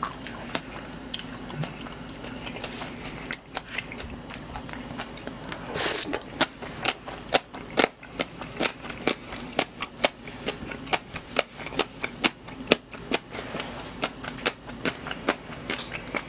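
Close-miked eating sounds: a person chewing mouthfuls of jokbal and noodles. Quieter for the first few seconds, then from about six seconds in a quick run of wet mouth smacks and clicks.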